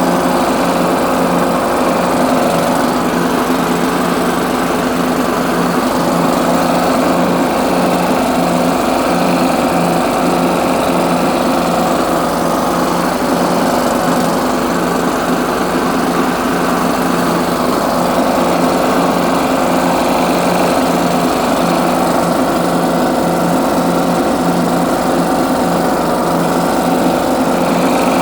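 Ariens 20 hp lawn tractor engine running steadily at a constant speed, with an even pulsing throb.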